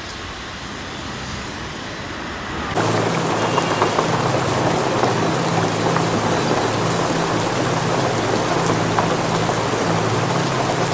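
Heavy downpour of rain, a dense steady hiss with individual drops ticking on hard surfaces. It cuts in abruptly and loud about three seconds in, after a fainter steady hiss.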